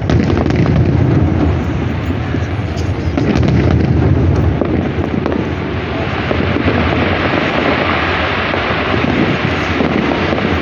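Fireworks salute: many shells bursting in quick succession, their booms overlapping into a continuous rolling rumble, with the sharpest bangs in the first half.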